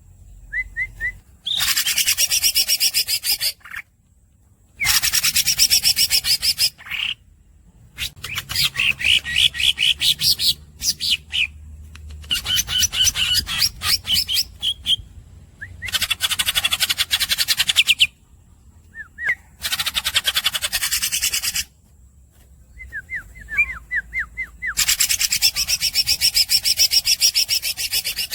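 Green leafbird (cucak ijo) singing in long, very rapid rolling trills, about seven bouts of a few seconds each separated by short pauses, with brief squeaky chirps in some of the gaps.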